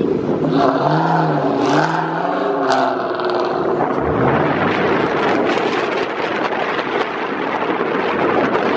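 A car engine revving, its pitch rising and falling over the first few seconds with a short rise about four seconds in, over heavy wind and road noise.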